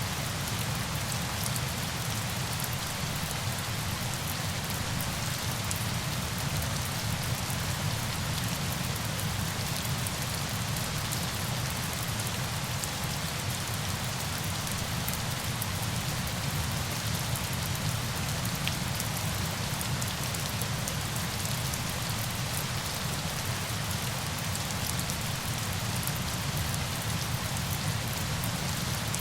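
Steady, unbroken rush of falling water, like heavy rain, with a low rumble beneath it and faint scattered drop ticks on top.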